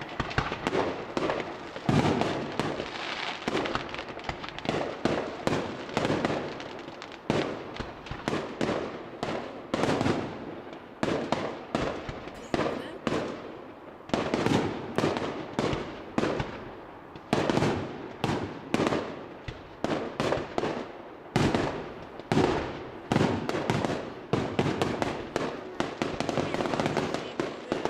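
Fireworks display: a dense, continuous barrage of bursting shells, several bangs a second with little let-up.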